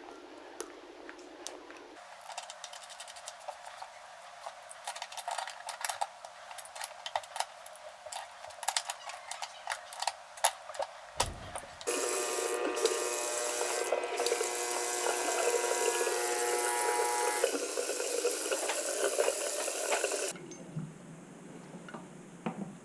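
Scattered clicks and taps for several seconds, then water running loudly and steadily for about eight seconds before it cuts off suddenly.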